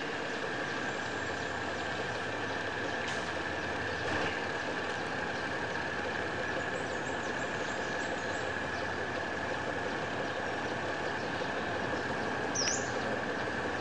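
Diesel engines of GE UM12C diesel-electric locomotives running steadily as the train moves slowly, with a constant mid-high tone over the engine noise. A brief high chirp comes near the end.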